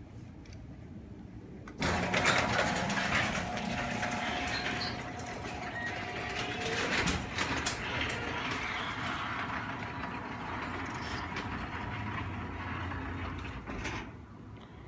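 Garage door opener starting up about two seconds in and running steadily as the garage door travels down to close, a steady mechanical whir with a faint steady tone through it; it stops shortly before the end.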